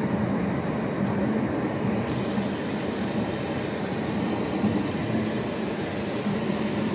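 Chevrolet Camaro running steadily, heard from inside the cabin as an even engine hum with road and wind noise, no revving.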